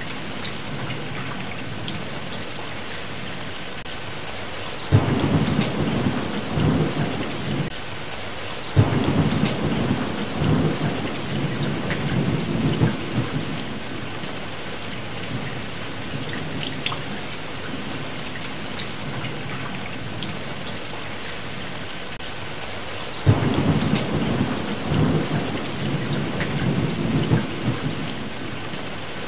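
Steady rain with three rolls of thunder. The first starts suddenly about five seconds in, the second a few seconds later, and the third about six seconds before the end; each rumbles on for a few seconds.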